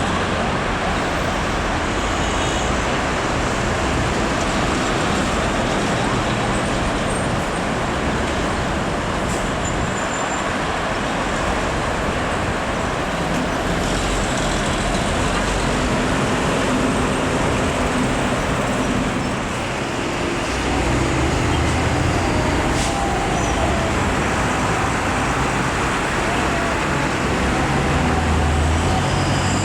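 Steady road traffic noise, with the low drone of a heavy diesel truck engine coming in about halfway through and growing louder near the end.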